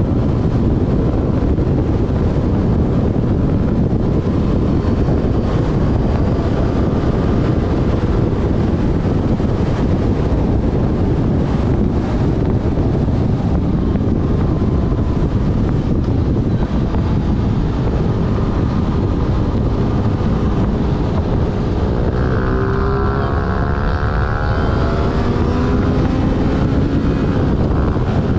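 Heavy wind rushing over the mounted action camera's microphone as a Yamaha Fazer FZ6S motorcycle rides along, its inline-four engine running underneath. A little past two-thirds of the way through, the engine pitch climbs and falls for a few seconds.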